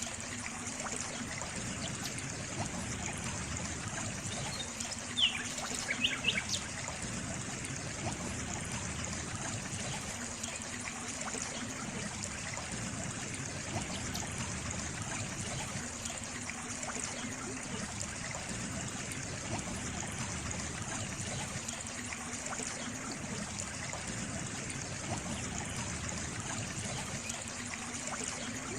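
Steady trickling of running water, with a few brief high chirps about five to six seconds in.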